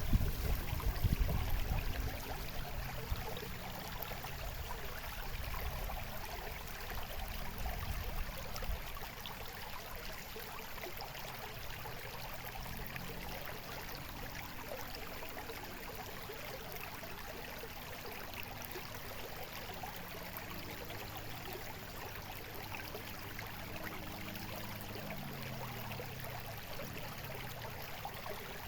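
Steady babbling of running water, a stream trickling and gurgling without pause. A low rumble sits under it for the first several seconds and then fades.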